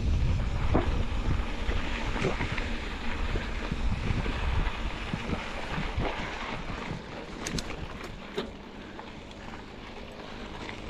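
Wind buffeting the microphone while on the move, a low rumbling rush that eases off over the second half, with a few light clicks near the end.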